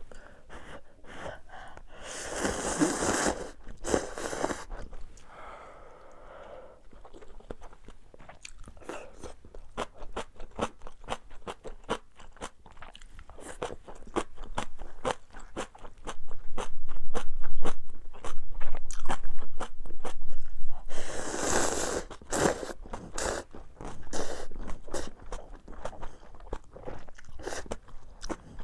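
A person eating close to the microphone: steady chewing with many small crunches and wet mouth clicks, broken twice by a longer rushing burst, about two seconds in and again about twenty-one seconds in.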